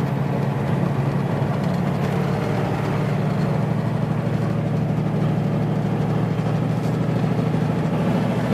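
Steady engine and road noise of a vehicle, an even low hum with no changes.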